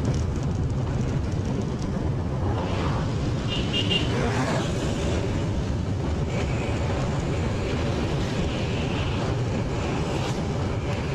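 Motorcycle under way: the engine runs steadily, with road and wind noise.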